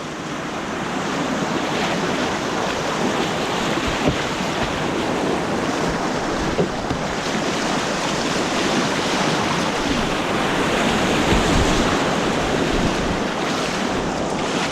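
Rushing white water of an artificial rapids course: a steady, loud rush of churning water around the kayak, swelling a little past the middle.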